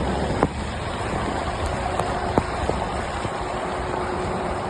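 Steady road and engine noise of a moving car, heard from inside the cabin, with a couple of short sharp clicks.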